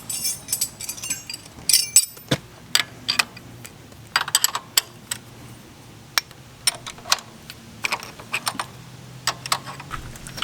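Irregular light clicks and metallic clatter of hand tools and small parts being handled while a part is taken off a 1975 Honda CB550.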